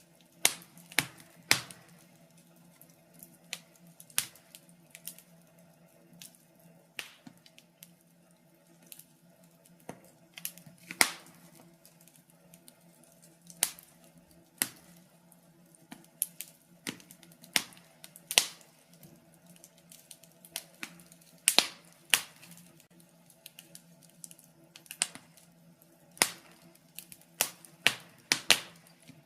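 Wood fire crackling: irregular sharp pops and snaps, a few of them much louder, over a faint low steady hum.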